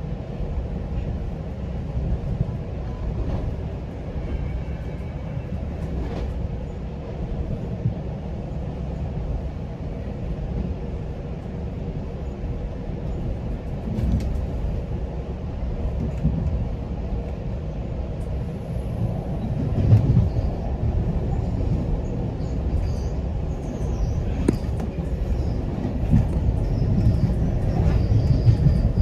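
Steady low rumble of a GO Transit commuter train running along the track, heard from inside a coach, with a few sharp knocks and faint high squeaks in the last several seconds.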